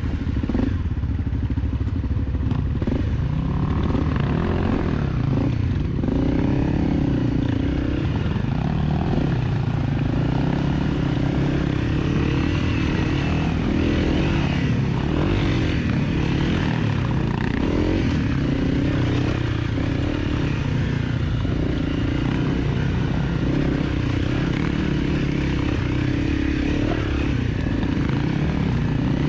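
250 cc dirt bike engine running while being ridden, its pitch rising and falling repeatedly as the throttle is opened and eased.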